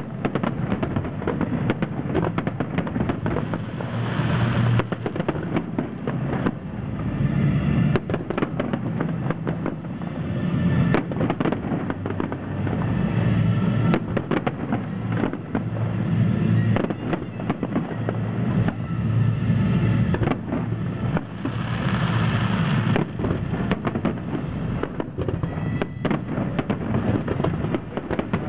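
Fireworks display: aerial shells bursting one after another in a dense, irregular run of bangs and booms over a continuous low rumble, with stretches of hiss and crackle.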